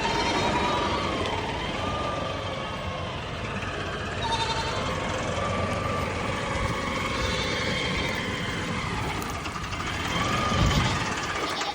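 A tractor engine running steadily, with goats bleating several times over it.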